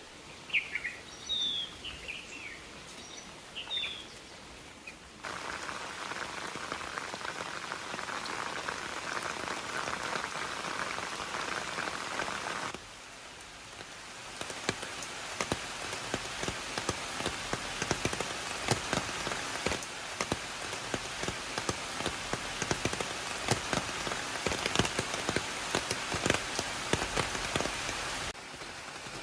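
Birds chirping for the first few seconds, then steady rainfall. From about halfway on, the rain falls harder, with many sharp drops striking close by.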